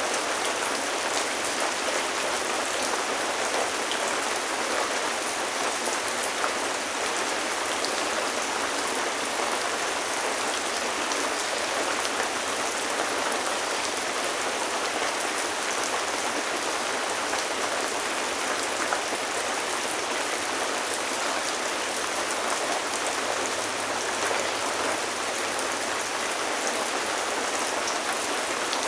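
Steady rainfall, a dense hiss of drops with fine individual drop ticks on a surface, unchanging throughout.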